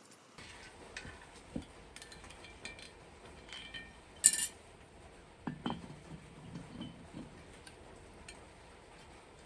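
Small metal parts and tools clinking and knocking. Scattered light taps, one sharp clink about four seconds in, then a few duller knocks just after.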